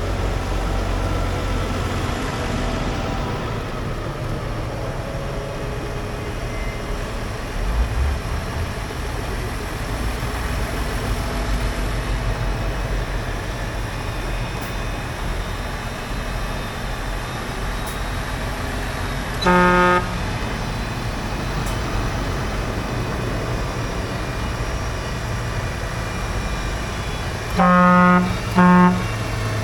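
Tractor engine running steadily. A horn toots once, briefly, about two-thirds of the way through, then twice in quick succession near the end.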